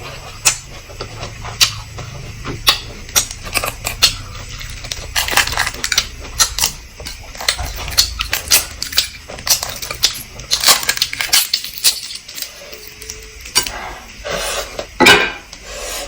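Cutlery and dishes clinking and clattering in many irregular sharp clicks.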